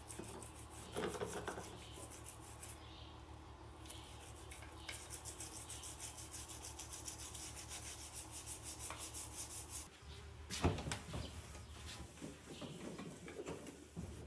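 Rapid, even scrubbing strokes, a few per second, for several seconds, stopping about ten seconds in; then a few knocks and clatters.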